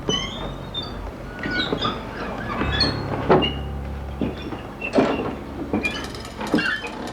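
Japanese nightingale floor chirping and squeaking under slow footsteps, a heavier footfall about every one and a half seconds among many short high chirps. The chirps come from the floorboards' clamps rubbing against their nails as the boards flex.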